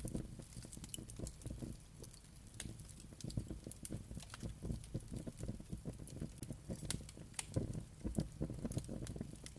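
Wood fire crackling in a fireplace: irregular sharp pops and snaps over a low rumble of the flames.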